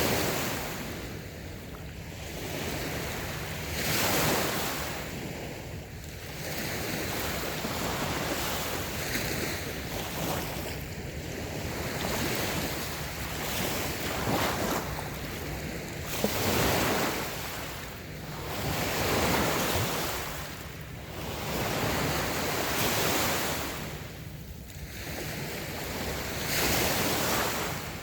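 Light waves washing onto a sandy beach, each wash swelling and fading every few seconds.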